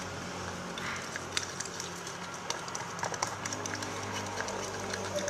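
Slime being stirred: scattered small sticky clicks and squelches over a steady low hum.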